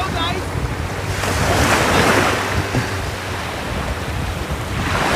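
Sea waves washing in swells, one building to a peak about two seconds in and another near the end, with wind buffeting the microphone.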